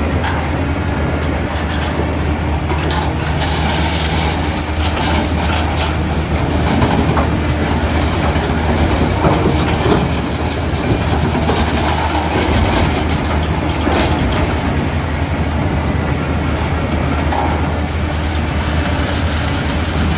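Diesel engine of heavy construction machinery running steadily under a low hum, with repeated metallic clanks and rattles.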